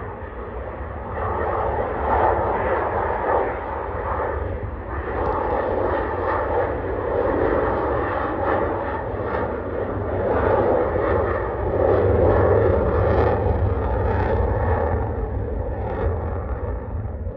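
Airplane flying overhead, its engine drone swelling and easing in loudness over several seconds.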